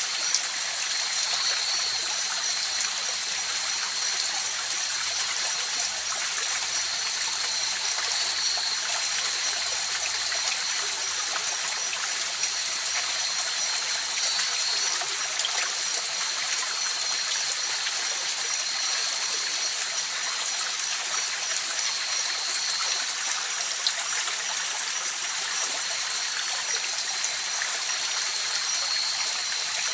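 River water running over stones, a steady even rush and babble. Above it a high, steady trill of night insects breaks off briefly a few times.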